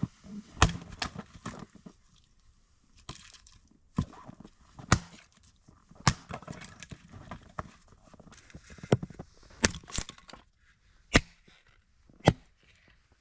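Sauerkraut cooking in a frying pan: a faint sizzle with sharp, irregular knocks and clicks about once a second, as a utensil strikes the pan while the cabbage is stirred.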